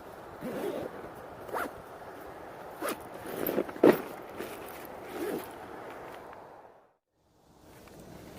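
A zipper pulled open in several short rasping strokes, the loudest about four seconds in. The sound then cuts out briefly near the end.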